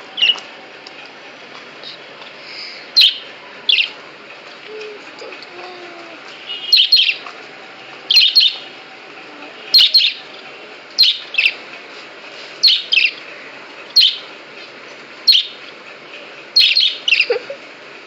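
Budgerigar chirping: short, sharp chirps, singly or in quick pairs, about once a second.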